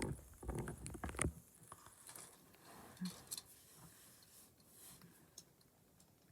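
Faint handling noise: a cluster of small clicks and rustles in the first second or so, then scattered light clicks that die away to near silence.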